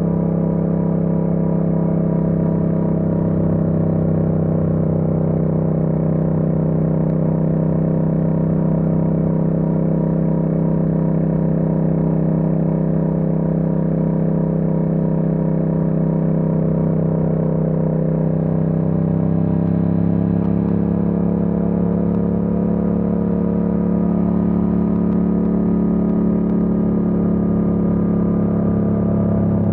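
Yamaha MT-07's 689 cc parallel-twin engine running at a steady cruise. Its revs dip a little and pick up again about two-thirds of the way through.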